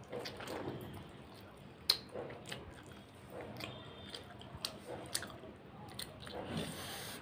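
Close-up chewing and biting of chicken curry with rice: wet, squishy mouth sounds broken by sharp clicks, the loudest of them about two seconds in.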